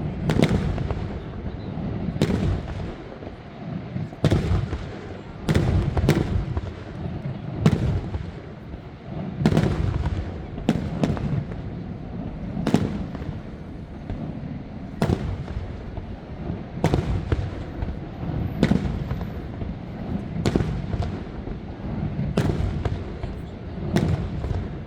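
Fireworks shells bursting overhead, a sharp bang every one to two seconds with each boom echoing away, over a continuous low rumble.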